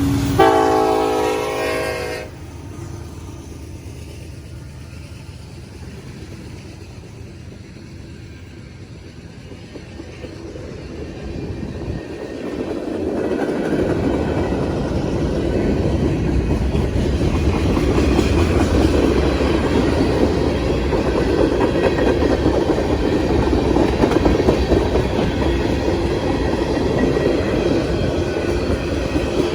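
Train horn sounding a chord for about two seconds. Then the train rumbles closer and passes, its wheels running steadily and loudly on the rails from about fourteen seconds in.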